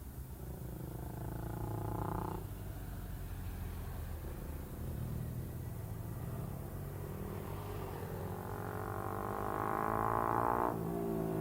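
Sport motorcycle engine running under throttle, its pitch climbing steadily through the last few seconds and dropping abruptly about ten and a half seconds in at a gear change.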